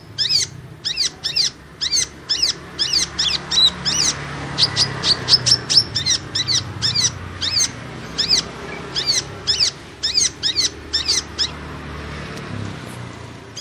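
Kolibri ninja (a sunbird) song used as a trapping lure call: a rapid, unbroken run of sharp, high chirps, each sweeping down in pitch, several a second.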